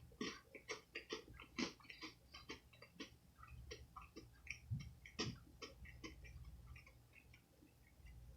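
Close-up chewing of a crunchy snack: a quick, irregular run of small crisp crunches and clicks, several a second, thinning out in the second half.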